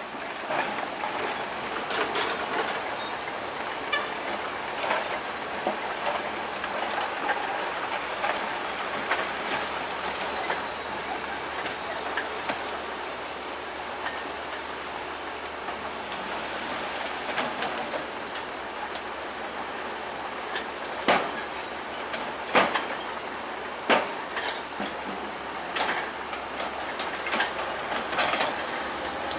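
Bulldozer's steel crawler tracks clattering and squealing as it moves, with a thin high squeal coming in partway through and several sharp metal knocks in the last third.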